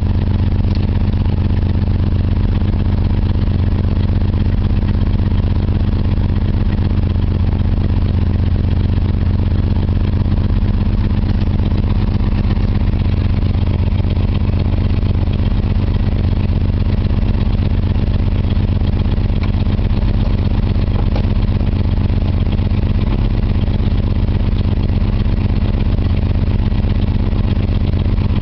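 1966 Ford Galaxie 500's 390 cubic-inch FE V8 idling steadily, warming up after a cold start.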